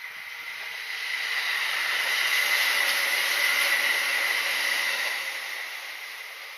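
Kintetsu electric train passing by on the Nagoya Line: a rushing wheel-and-rail noise that swells over about two seconds, stays loud for about three, then fades away near the end.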